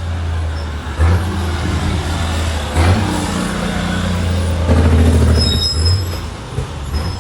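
Heavy diesel semi-truck engine running loud, its low drone surging about one, three and five seconds in. A brief high squeal comes about five and a half seconds in.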